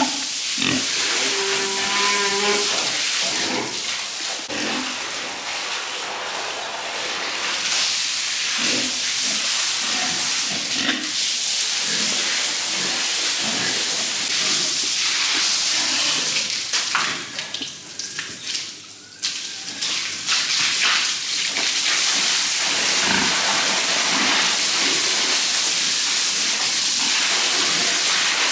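Water spraying hard from a hose as a pigsty and its pigs are washed down, a steady hiss that eases off briefly about two-thirds of the way through. Pigs call over it, with a short pitched call about two seconds in.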